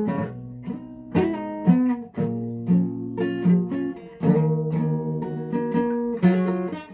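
A guitar playing strummed chords, each strum ringing on before the next, with a pause after about four seconds.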